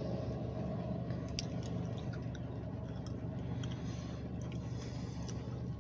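Low, steady rumble of a slow-moving freight train's diesel locomotive, with scattered light ticks and drips of rain.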